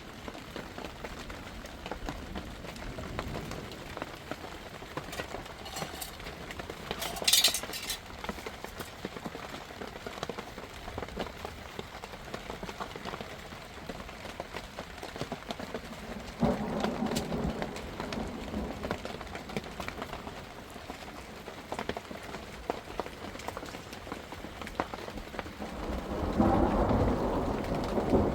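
Steady heavy rain pattering on surfaces, with thunder rumbling about sixteen seconds in and again near the end. A short, sharp crack about seven seconds in.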